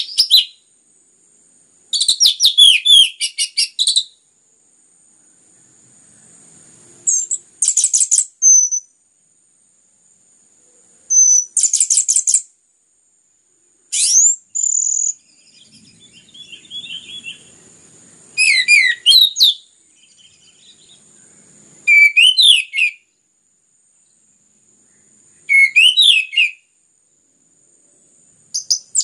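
Orange-headed thrush (anis merah) in full song, giving short loud bursts of rapid whistled and chattering phrases every three to four seconds.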